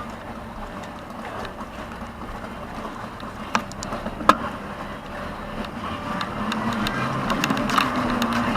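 Motorboat engines running in a busy channel, with the engine noise growing louder toward the end. A couple of sharp clicks come around the middle.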